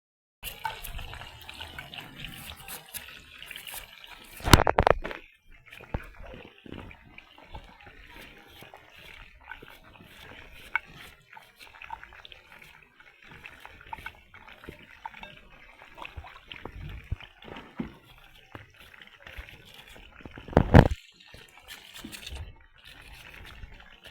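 Water splashing and running in a kitchen, mixed with small knocks and clatter, with two short louder bursts about four and a half seconds in and near the end.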